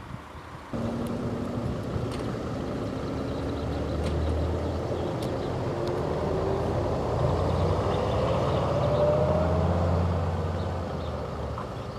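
A motor vehicle's engine running close by, starting abruptly about a second in; its pitch climbs steadily as it accelerates, growing louder, then eases off slightly near the end.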